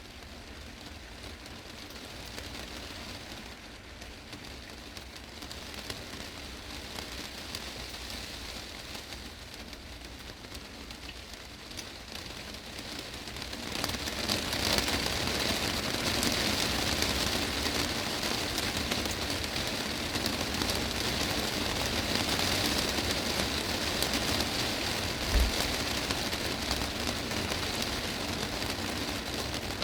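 Heavy rain falling on a glass greenhouse roof, a steady hiss that grows much louder about halfway through. There is one brief low thump near the end.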